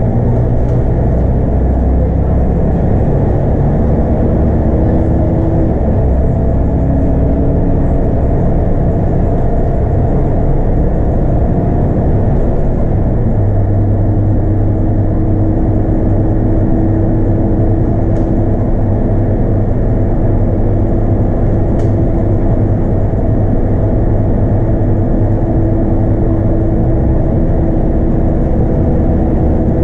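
Scania DC9 five-cylinder diesel of a Scania K230UB bus running under way, with road noise. The engine note shifts about a third of the way through and then holds steady.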